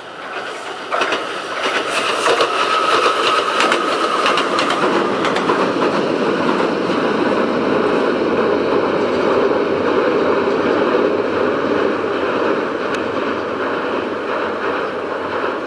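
Konan Railway 7000-series (ex-Tokyu 7000) electric train running past, its wheels clicking rapidly over the rail joints for the first few seconds with a brief whine. It then settles into a steady, loud rumble as it runs across a railway bridge.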